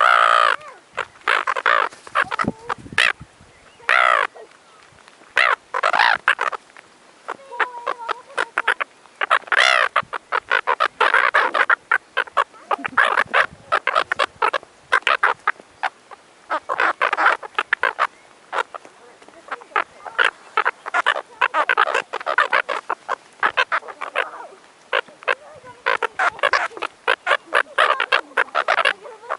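A flock of gulls squabbling over food: harsh, repeated squawking calls from several birds, overlapping almost without a break.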